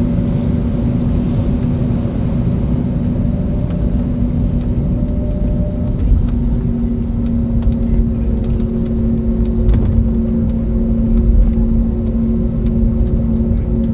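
Cabin noise of an Airbus A320neo at takeoff: a loud, steady engine rumble with a constant hum, and a second steady tone joining about halfway through.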